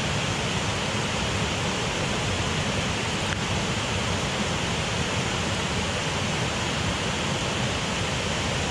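Waterfall on a beck, a steady rush of falling water.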